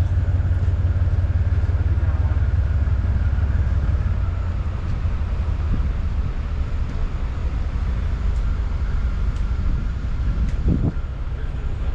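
Alco FA diesel locomotive's engine running just after startup, a deep, rapid low throb that eases slightly about four seconds in.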